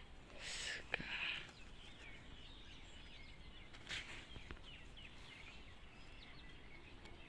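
Small birds chirping faintly and repeatedly, with a single sharp click about a second in and a few brief rustles.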